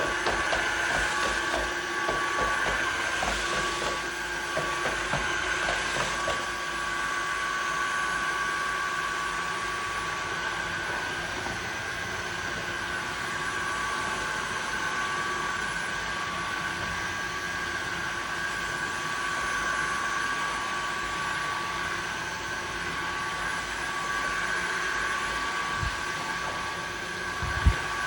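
Osotek H200 Lite wet-dry vacuum mop running steadily, a motor hum with a steady high whine. Crackling and rattling in the first six seconds as it sucks up chunks of vomit and liquid, and a single knock near the end.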